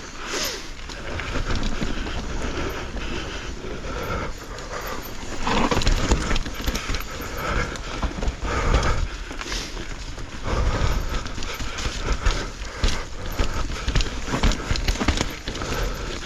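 Mountain bike ridden over rough, wet trail: tyres rolling over roots and rock, with irregular knocks and rattles from the bike.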